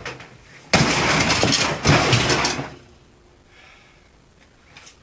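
Reciprocating saw running in a burst of about two seconds, cutting into the sheet metal and insulated wall of a refrigerator, with a brief break in the middle. It starts suddenly about a second in.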